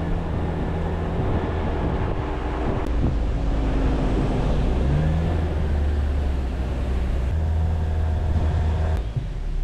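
Jeep Wrangler driving along a forest road: a steady low engine hum with road and tyre noise over it.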